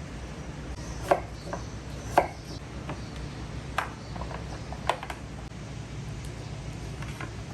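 Kitchenware being handled: about half a dozen irregular sharp knocks and clinks, the loudest a little after one second and two seconds in, over a steady low hum.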